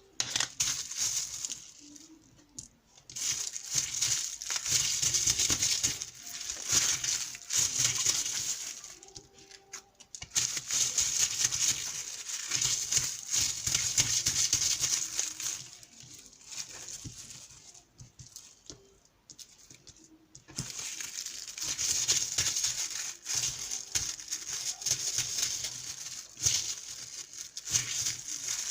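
Water running and splashing in three long stretches of several seconds each, with quieter gaps between.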